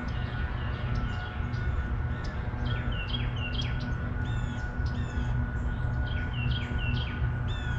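Small birds chirping many times in quick, pitch-sweeping notes over a steady low hum and a faint constant high tone.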